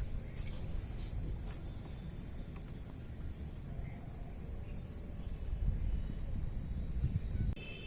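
Crickets or similar insects chirring in a fast, even, high-pitched pulse over a low rumble, likely wind on the microphone. Near the end the chirring cuts off abruptly and steadier high tones take its place.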